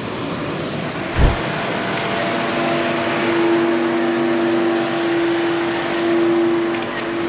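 A car running with its air-conditioning blower going: a steady rushing noise with a hum that settles in about two seconds in. There is a single low thump about a second in.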